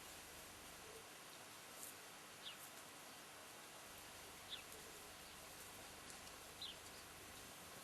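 Near silence: faint background hiss with three short, faint high chirps that fall in pitch, about two seconds apart.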